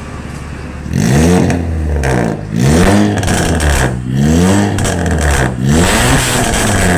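Honda Brio's four-cylinder engine through an aftermarket full-system Arturo exhaust, idling, then from about a second in revved repeatedly, with a series of quick throttle blips each rising and falling in pitch.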